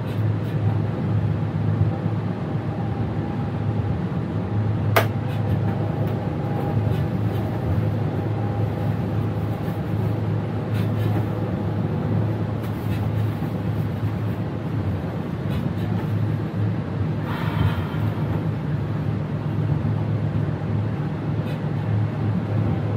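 Electric train heard from inside the driver's cab while running: a steady low hum and rumble of wheels and traction equipment, with faint steady whining tones. A single sharp click comes about five seconds in, and a short buzzing tone sounds for about a second around seventeen seconds in.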